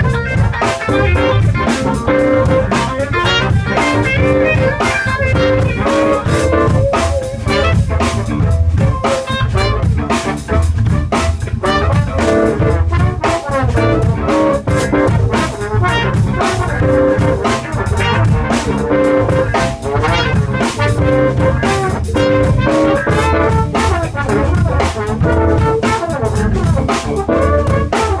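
A live band rehearsing a song, playing continuously with a steady drum beat.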